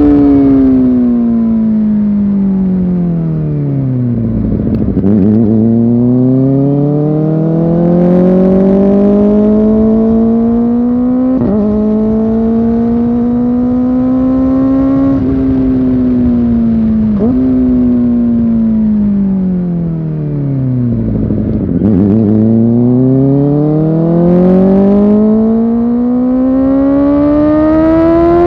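Kawasaki Ninja ZX-4R's inline-four engine under way, its pitch sliding down to low revs twice as the bike slows and then climbing steadily back up under acceleration. Brief sharp dips in the rising note mark quick gear changes.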